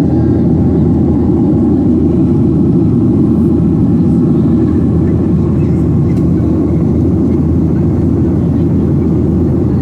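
Steady cabin noise of a Boeing 737-700 in flight: even, low drone of the CFM56-7B engines and airflow over the fuselage.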